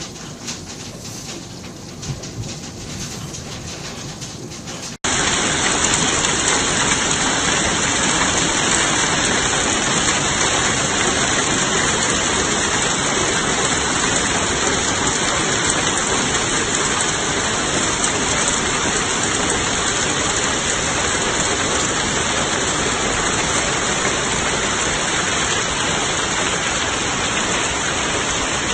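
Hail pelting down on outdoor surfaces, a dense hiss of many small impacts with separate ticks audible at first. About five seconds in it switches to a much louder, steady, unbroken downpour.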